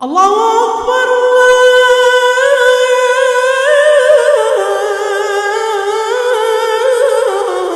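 A man's voice chanting the adhan, the Islamic call to prayer, unaccompanied, in long held notes with wavering melismatic ornaments. It starts abruptly, swoops up at once, then steps slowly down in pitch.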